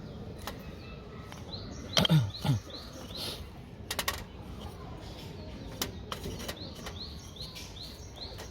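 A small bird calling outdoors, a series of short arched chirps repeated a few times a second in two spells, with scattered sharp clicks. About two seconds in, two louder low sounds fall in pitch.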